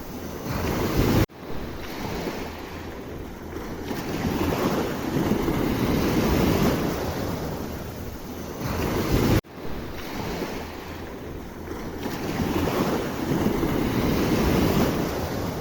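Sea waves washing in and out, the surf swelling and fading every few seconds, with wind rumbling on the microphone. The sound breaks off sharply and restarts twice, about a second in and again after about nine seconds.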